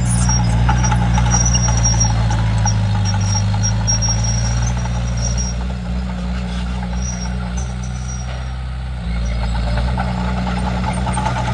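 Komatsu D31P bulldozer's diesel engine running steadily under working load, with intermittent high squeaks. It drops a little quieter about six seconds in and picks up again about nine seconds in.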